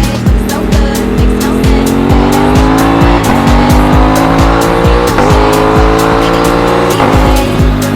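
Aprilia RS660 parallel-twin engine accelerating hard, its pitch climbing and dropping sharply at upshifts about three, five and seven seconds in. Music with a fast steady beat and bass plays alongside.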